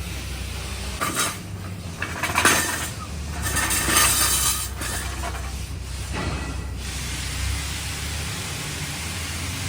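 Metal clinks and clatter of tools and parts while a car's shock absorber is being taken out, a few sharp clanks and a scrape in the first half, over a steady low hum.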